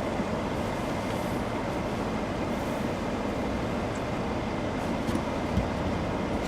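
Steady road and tyre rumble inside a moving vehicle's cabin, with a short thump about five and a half seconds in.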